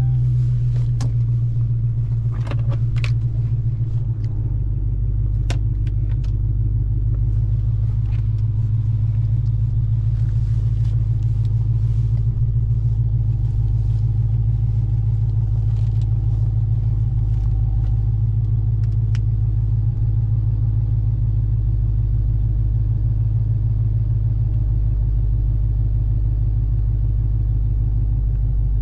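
Low, steady drone of a Dodge Redeye Hellcat's supercharged 6.2-litre HEMI V8 as the car cruises at an even speed. A few light clicks sound in the first several seconds.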